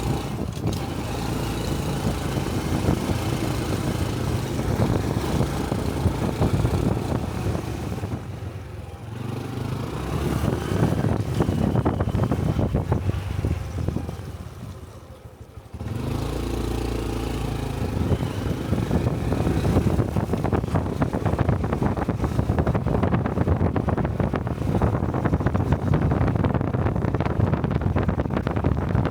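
Honda Cub 125 cc single-cylinder motorcycle engine running on the road, with wind rush on the helmet microphone. The engine eases off about eight seconds in, fades away from about thirteen seconds, then picks back up sharply about sixteen seconds in.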